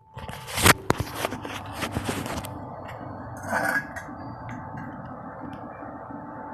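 Metal clinking and scraping: a sharp clank under a second in, then several lighter knocks and scrapes over the next two seconds. A steady low hum runs underneath.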